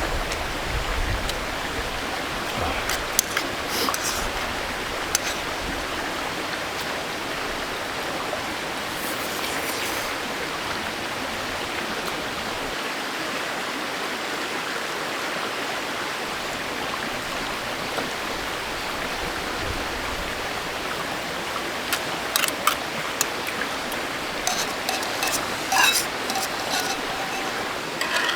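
Valley stream flowing: steady rushing water. Scattered light clicks and taps come a few seconds in and again over the last several seconds.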